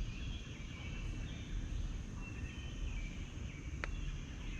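Outdoor ambience of steady insect and bird chirping over a low rumble, with a single sharp click near the end.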